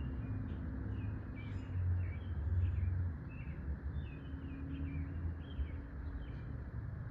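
Small birds chirping outdoors, a string of short, quick, sliding notes repeated throughout, over a steady low rumble that swells for about a second, two seconds in.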